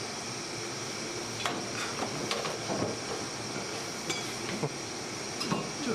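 Light knocks and clicks of hand tools and candy dough being handled on a work table, scattered about once a second, over a steady background hiss.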